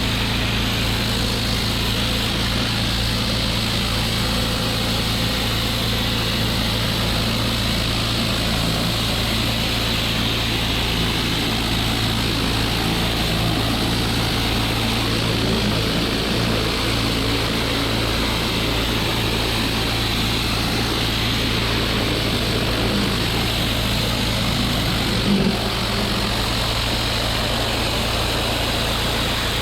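Pressure washer engine running steadily, with the hiss of high-pressure water spray.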